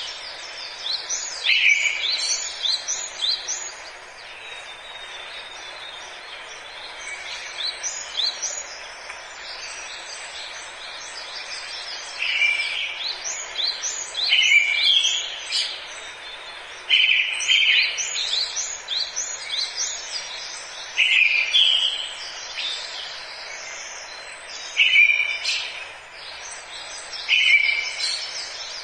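Forest birdsong: one bird repeats a short phrase, a buzzy low note followed by several quick rising whistles, every few seconds, with a quieter spell of fainter calls in the first third. A steady background hiss runs beneath it.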